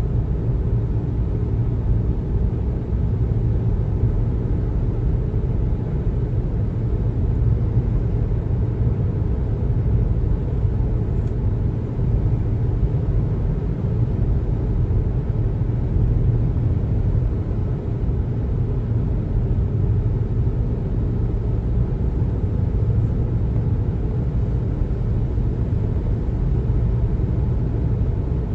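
Steady low road rumble of a car driving at speed: tyre and engine noise, constant throughout.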